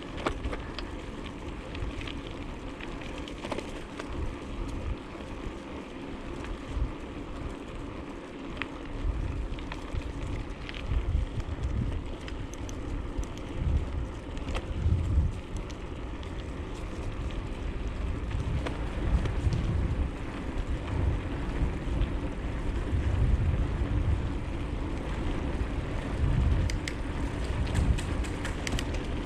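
Bicycle being ridden: tyres rolling and the drivetrain running steadily, with small clicks. From about nine seconds in, wind gusts buffet the microphone in low rumbles.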